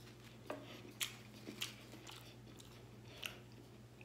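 Close-up chewing and biting of a breaded vegan buffalo chicken piece: a handful of short, soft crunches and mouth clicks, with a low steady hum underneath.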